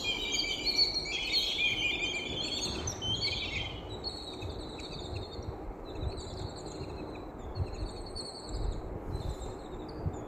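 Several birds chirping and singing, dense in the first four seconds and then sparser, over a steady low background rumble.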